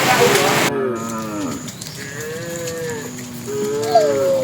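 Cattle mooing: several long calls in turn, most sliding down in pitch, one rising and then levelling off near the end. Hiss of heavy rain at the start cuts off abruptly under a second in.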